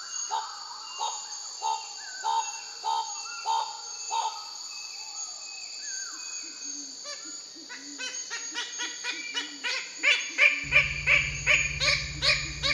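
Bird of paradise calling: short repeated calls about one and a half a second, breaking into a faster, louder run of calls near the end. Behind them runs a steady high insect chorus, and a low rumble joins in about two seconds before the end.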